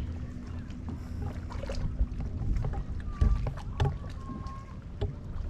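Waterside ambience: low wind and water noise with a faint steady hum and a few light knocks.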